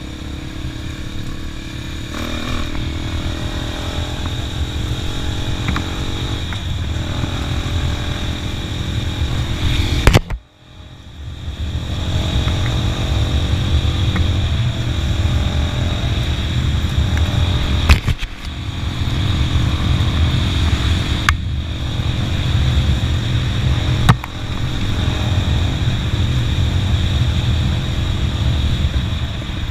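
Motorcycle engine running steadily under way, with a heavy low rumble and rushing noise. The sound drops out briefly about ten seconds in and then builds back up, with a few sharp knocks later on.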